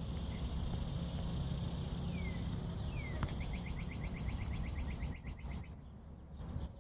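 Outdoor ambience with a steady low rumble and hiss. A bird gives two short downward-sliding calls a little past two seconds in, then a rapid, evenly paced trill lasting about two seconds.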